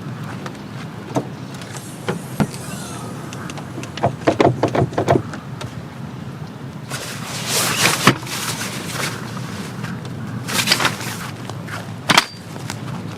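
Camping gear being handled: a run of sharp clicks and knocks about four seconds in, then several louder rustling bursts, over a steady background of soft rain.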